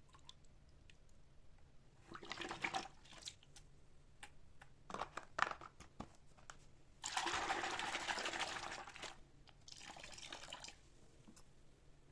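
Water running in several short spells, the longest and loudest lasting about two seconds, with light handling clicks between.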